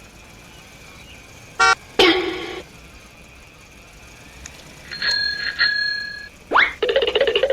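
A string of short, separate sound events: a quick chirp and a noisy burst about two seconds in, a two-tone beep that sounds twice about five seconds in, then a rising glide leading into a rapidly pulsing buzzing tone near the end.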